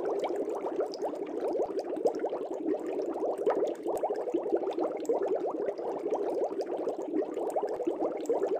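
Aquarium air bubbles rising and bubbling in a fish tank: a steady, dense burble of many small bubbles with scattered higher pops.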